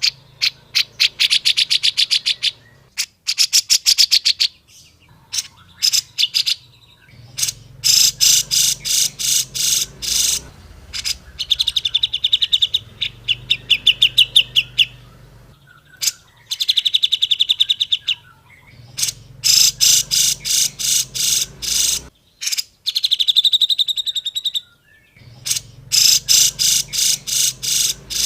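Grey-cheeked bulbul (cucak jenggot) calling in rapid chattering trills: bursts of fast, evenly repeated notes, each a second or two long, with short pauses between. A faint low hum runs under it.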